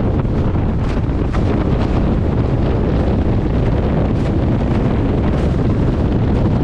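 Heavy wind buffeting the microphone in a blizzard: a loud, steady low rushing.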